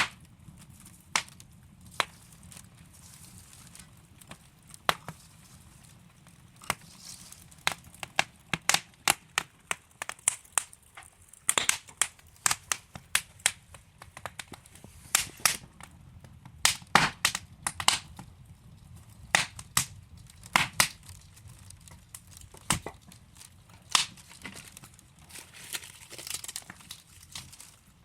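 Wood fire burning in a fireplace: logs crackling and popping with irregular sharp snaps over a low steady hiss, the pops thickest through the middle of the stretch.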